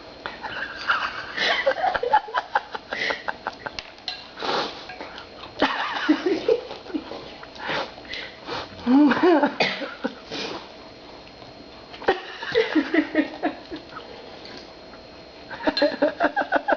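Cereal being eaten: quick runs of crunching and clicking, with sniffing, and soft voices or laughter in places.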